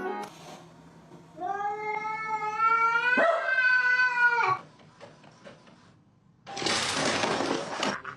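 A cat's long, drawn-out meow lasting about three seconds, its pitch rising and then dropping at the end. A burst of hissing noise about a second and a half long follows near the end.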